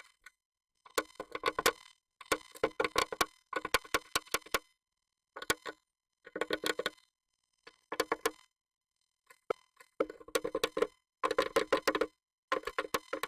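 Japanese tit moving about inside a nest box: short bursts of rapid taps and scratches against the box, about ten bursts with brief pauses between them, ringing hollow in the enclosed box.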